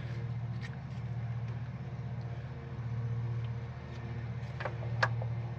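A neighbour's lawn mower engine running steadily in the background, its drone swelling and fading slowly. A few light clicks come near the end from headlight parts being handled.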